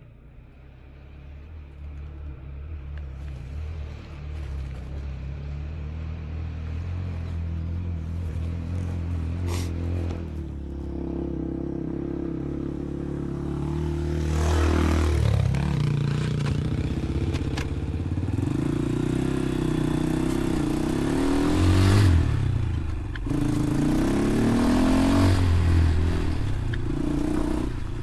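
Motorcycle engine running under way, growing louder over the first few seconds, then revving up and down several times through the gears, with rattling and scraping over it.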